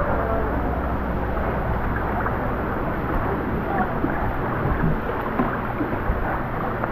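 Steady rushing water of a waterfall pouring into a deep canyon pool.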